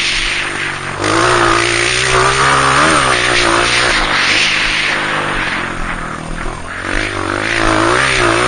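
Honda CRF230F dirt bike's single-cylinder four-stroke engine running hard, revving up and down repeatedly as it is ridden, with the pitch rising and falling several times.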